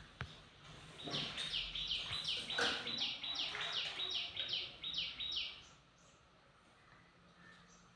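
A bird calling: a quick run of about a dozen high notes at roughly three a second, each sliding down in pitch, stopping after about five seconds.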